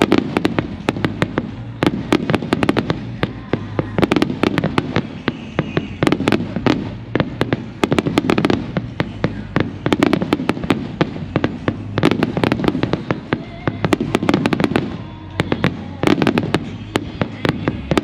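Aerial fireworks going off in a large display: dense, rapid crackling and popping with repeated deep booms swelling and fading.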